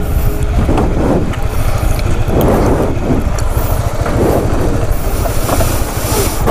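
Honda sport motorcycle's engine idling while stopped, with a steady low rumble.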